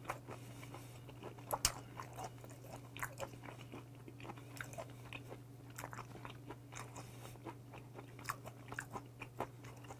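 Close-miked chewing of a mouthful of raw mullet sashimi: soft, irregular wet clicks of the mouth and teeth working on firm, chewy fish, over a steady low hum.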